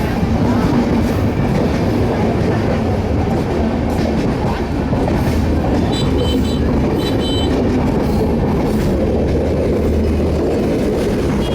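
Train running on the rails: a steady, loud rumble of wheels on track. Two short high-pitched tones sound about six and seven seconds in.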